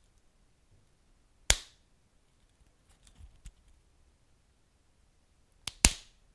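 Wood fire crackling: a few sharp pops from burning logs, one loud one about a second and a half in and a quick double pop near the end, with smaller crackles between.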